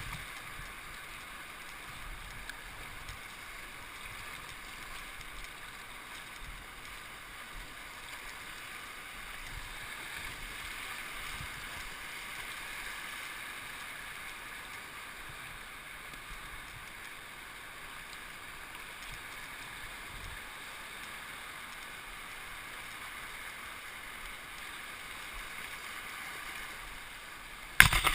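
Steady rush of river water moving past a kayak, with a sudden loud clatter right at the end.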